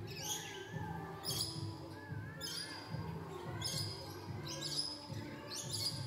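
Aviary birds calling: a sharp, high, downward chirp repeated about once a second, with a wavering whistled note and low pulsing calls underneath.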